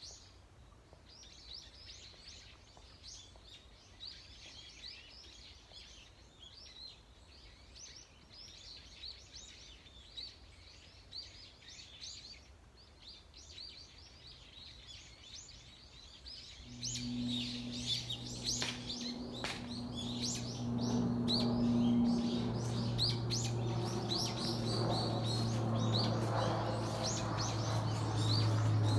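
Birds chirping and twittering in quick short calls over quiet outdoor background. About two-thirds of the way through a steady low hum comes in and the whole sound grows louder, with the chirping going on above it.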